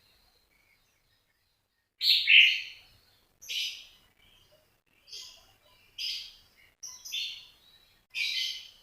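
A cage bird giving a series of short, sharp chirping calls, roughly one a second, starting about two seconds in, the first the loudest.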